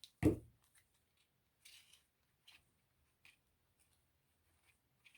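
Crafting handling noises: a soft knock about a quarter second in, then scattered light clicks and brief rustles as pieces are pushed into place.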